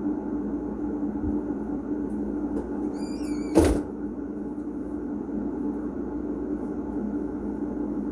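A short squeak followed by a single loud knock about three and a half seconds in, as a door or lid is shut, over a steady low hum.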